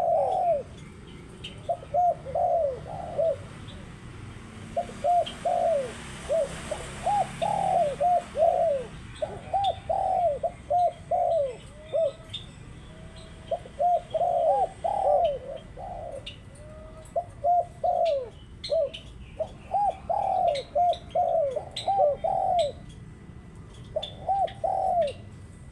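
Spotted doves cooing: repeated phrases of three to five rounded, arching coos with short pauses between phrases. Faint high chirps of small birds run alongside.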